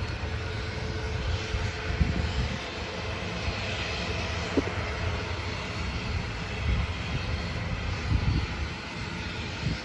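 Jet airliner engine noise: a continuous rush with a heavy, uneven low rumble, the higher hiss swelling a little around the middle.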